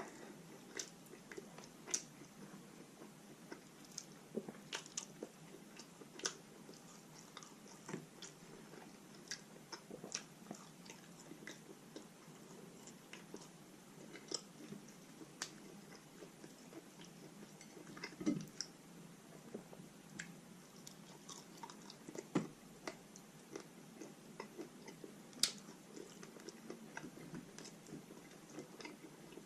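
A person chewing and biting roast chicken meat close to the microphone: quiet, irregular wet mouth clicks and smacks, with a few louder bites.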